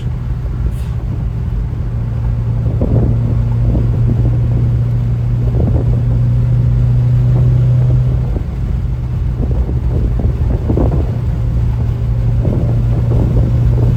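Steady low engine drone with a deep rumble beneath, holding one pitch throughout and dipping briefly about eight seconds in.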